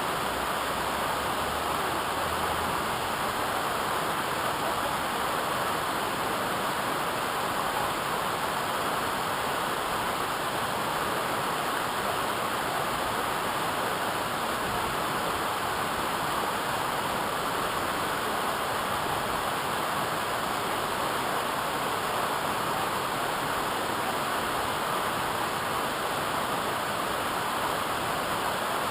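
Steady rushing water of a waterfall, an even roar that holds without change.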